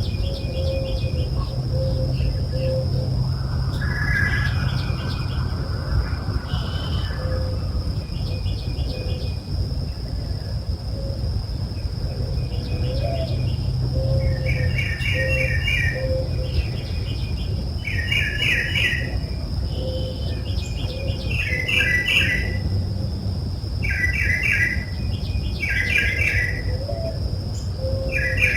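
Dawn chorus of birds: several birds calling, with a short trilled chirping phrase repeated every couple of seconds that grows stronger about halfway through. Under it runs a steady high-pitched insect drone and a low rumble.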